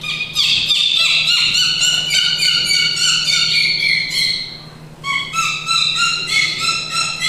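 A woman imitating a bird call with her voice: a rapid run of short, high, squeaky notes, about five a second, drifting slightly down in pitch. A second run starts about five seconds in.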